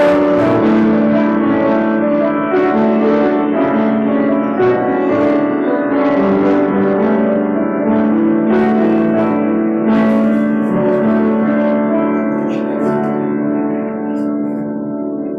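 Slow piano music with long held chords, softening near the end.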